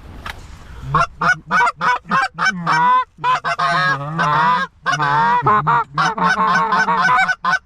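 Goose honking and clucking, starting about a second in: a fast, loud run of short honks, several a second, some rising and falling in pitch.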